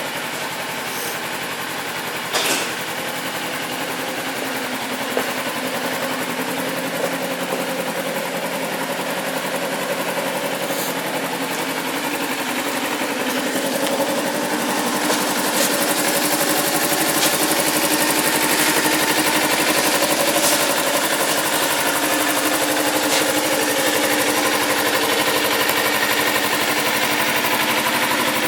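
Kawasaki EX250R Ninja 250's parallel-twin engine idling steadily just after start-up, a little louder from about halfway through, with a couple of light clicks.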